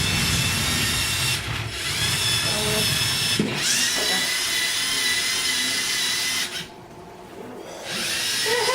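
Small electric motors of a LEGO Mindstorms competition robot whining as it drives and works. The pitch rises each time it starts a new move, about one and a half and three and a half seconds in. The motors stop for about a second near the end, then start again.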